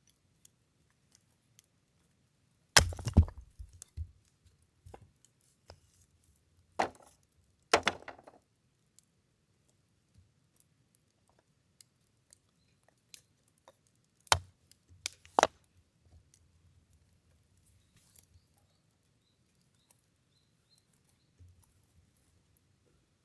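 Firewood being split with sharp chopping blows. They come in three pairs, a few seconds apart, with quiet stretches between.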